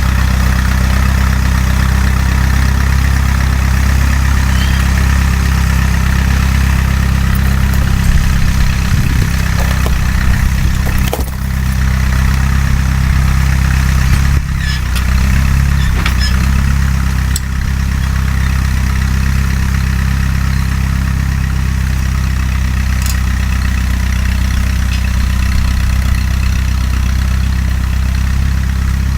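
Fiat 352C tractor engine running steadily, a deep even drone with a few brief dips in level partway through.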